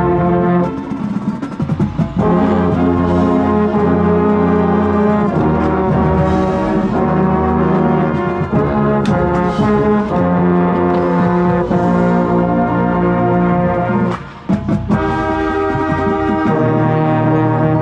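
Marching band brass section playing loud, sustained chords, with sharp hits cutting in about nine and fourteen seconds in, and a brief break just before the full chord returns.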